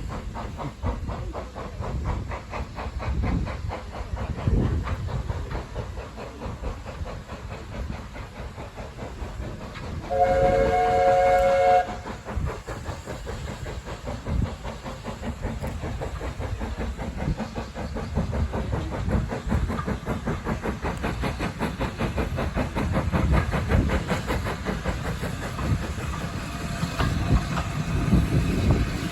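Heritage railway train running along the line with a steady rhythmic clatter of wheels on the rails. About ten seconds in, a brief warning blast sounds: a chord of several notes held for about a second and a half.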